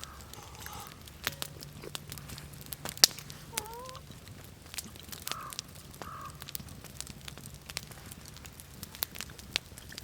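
Wood fire crackling with sharp pops scattered throughout, the loudest about three seconds in. A bird calls briefly near the start and twice more around the middle.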